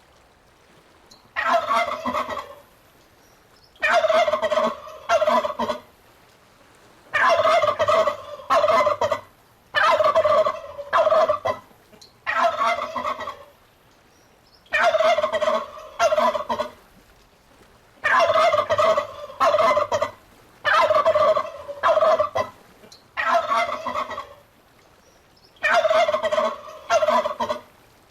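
Domestic turkey gobbling again and again: about ten rattling gobbles, each a second or two long, coming every two to three seconds.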